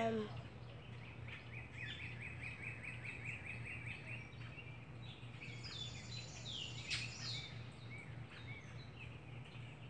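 Wild birds singing outdoors: a quick run of about a dozen chirps, about six a second, then several higher falling notes, over a steady low hum. A brief loud call sounds right at the start.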